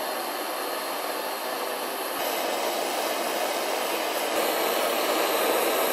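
MAPP gas torch burning with a steady hiss as its flame heats a seized cylinder head stud to loosen it, growing slightly louder along the way.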